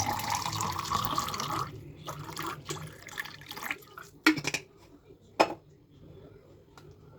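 Water running from a tap into a vessel, the pitch rising slightly as it fills, stopping about two seconds in. Then a few light clicks and two sharp knocks of kitchenware being handled.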